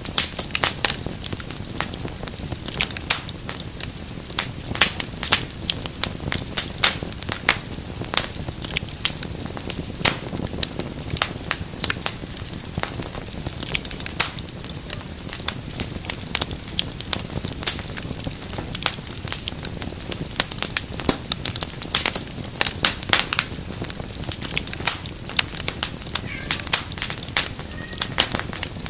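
Wood fire burning in a fireplace: a steady low rush of flame under a dense, irregular run of sharp crackles and pops.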